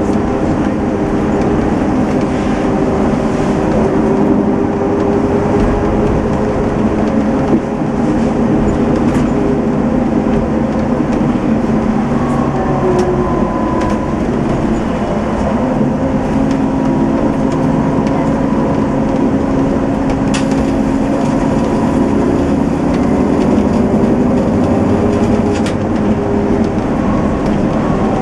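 Setra S 431 DT-L double-decker coach with manual gearbox under way, its diesel engine running steadily over a heavy road rumble. The engine note drops around the middle and then climbs again.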